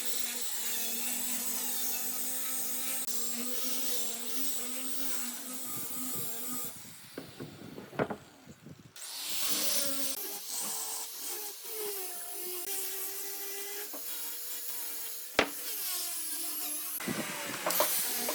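Wood lathe spinning a table-leg blank while a cutting tool scrapes and rubs against the wood. It drops away briefly about seven seconds in, then resumes, and there is a single sharp knock near the end.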